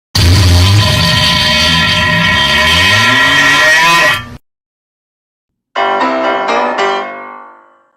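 Two short comedy sound-effect clips back to back: first a loud clip of about four seconds with several held tones and a rising pitch near its end, cutting off suddenly; then, after a pause, a quick run of plucked notes that fades out.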